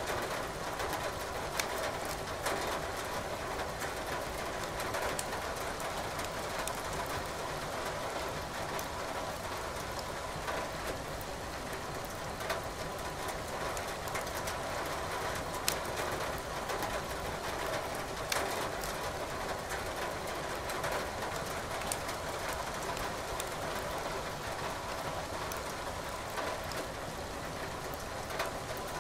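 Steady rain hiss with burning firewood crackling in a fireplace, a few sharp pops now and then.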